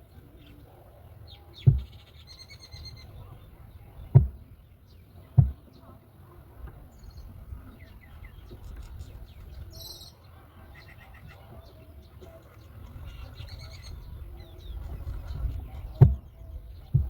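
Birds calling in short, high chirps, with four sharp low thumps: two close together in the first few seconds, another shortly after, and one near the end.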